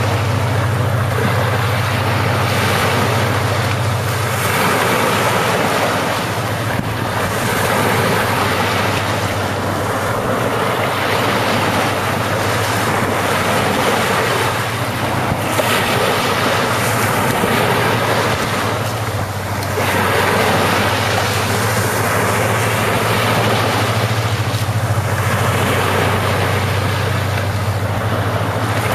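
Ocean waves washing onto the shore, the surf swelling and easing every few seconds, with wind on the microphone and a steady low rumble underneath.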